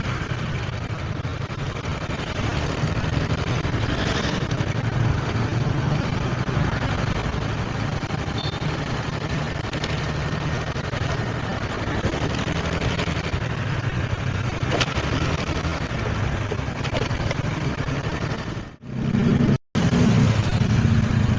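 Motorbike engine running while riding, under steady wind and road noise. The sound cuts out briefly near the end, then resumes.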